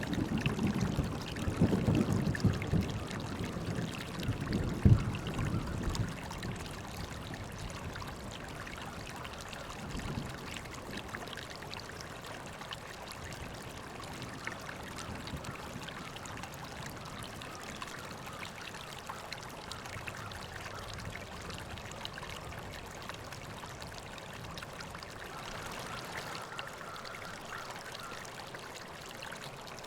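River water flowing and trickling steadily over rocks. A deep rumble in the first few seconds dies away about six seconds in.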